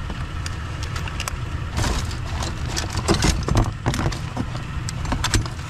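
A vehicle engine idling with a steady low rumble, under repeated light clicks and clatter of small scrap items being rummaged through in a box.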